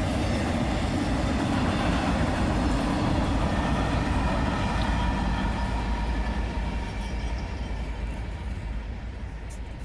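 Freight train rolling past with a steady rumble that fades away over the last few seconds.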